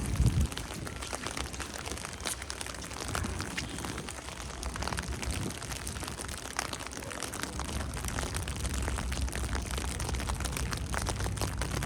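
Steady patter of falling snow: irregular small ticks over a soft hiss. There is a brief low thump at the start, and a low rumble builds in the last few seconds.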